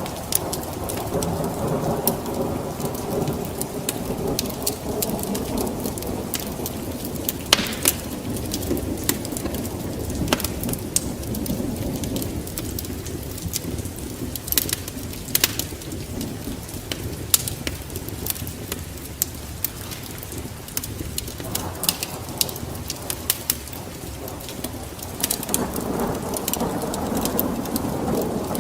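Steady rain with low rolling thunder that fades out about two-thirds of the way through and builds again near the end, with scattered sharp ticks throughout.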